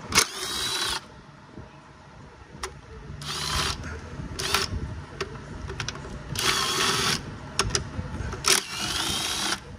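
Small power ratchet or driver running in about five short bursts with a wavering whine, spinning out 8 mm bolts, with a few clicks between the bursts.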